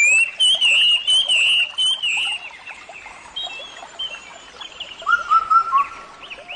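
Birds chirping and twittering in quick, warbling runs of short high notes, with a few lower whistled notes about five seconds in.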